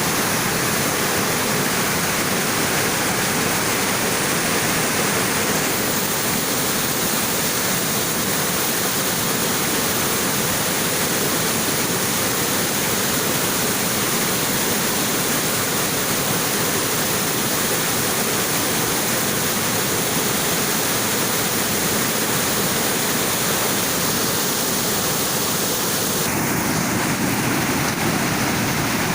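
Fast-flowing floodwater rushing steadily, with a slight change in its sound near the end.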